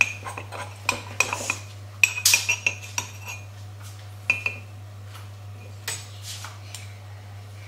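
A spoon stirring batter in a mug, clinking and scraping against the sides: quick clinks for the first few seconds, then only a few scattered taps. A steady low hum runs underneath.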